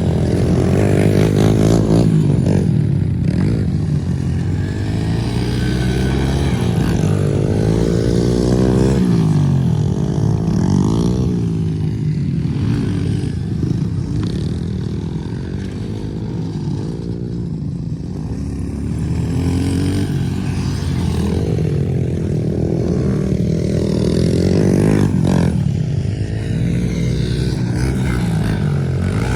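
Pit bike engines running and revving up and down, their pitch rising and falling again and again as the bikes ride around.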